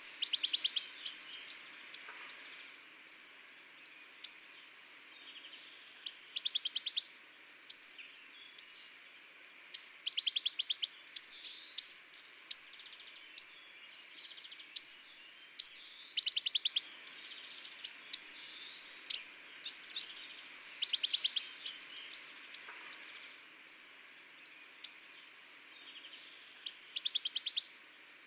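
Small garden songbirds calling: many short, high chirps and call notes, broken every few seconds by a fast rattling trill.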